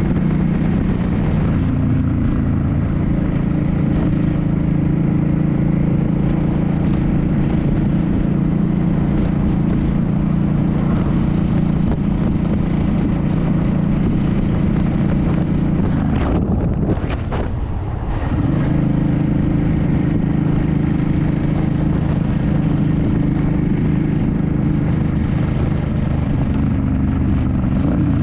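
A 2006 Suzuki C50's V-twin engine running steadily while cruising, heard from the rider's position. About two-thirds of the way in the engine note briefly drops, then settles back into a steady run.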